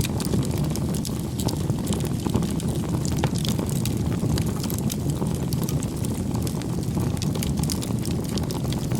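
Wood campfire burning: a steady low rush of flame with frequent small crackles and pops from the burning wood.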